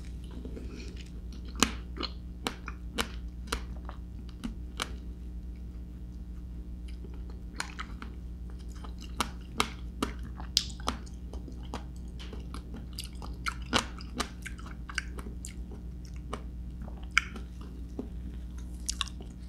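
Close-miked chewing of a spoonful of soft star apple flesh, with frequent short, irregular wet clicks and smacks of the mouth.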